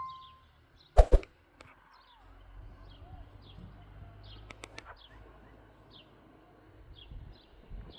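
A single sharp knock about a second in. After it, a bird repeats short, high, falling chirps every half second or so over a faint low rumble of outdoor ambience.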